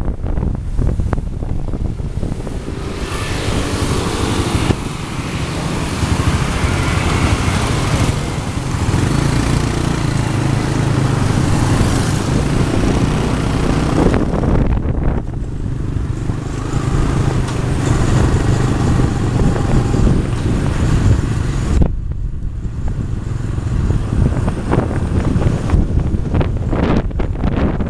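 Riding on a small motorbike taxi: steady engine and road rumble with wind buffeting the microphone. A broader rushing noise from traffic and the wind rises for two long stretches, one over most of the first half and a shorter one later.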